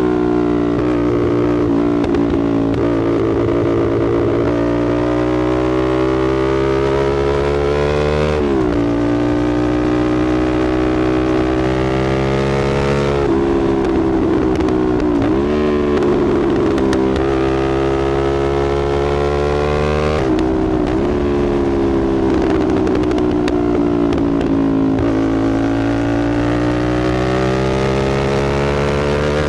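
Motorcycle engine running through a slip-on AR aftermarket exhaust while riding, its pitch sinking and climbing as the throttle and gears change, with sharp dips and jumps several times.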